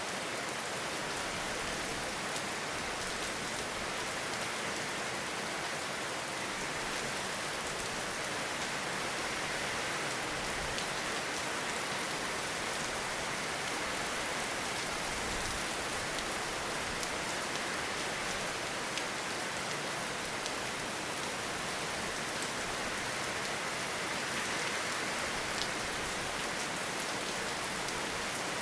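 Steady rain falling in a forest: an even hiss with scattered small ticks of individual drops.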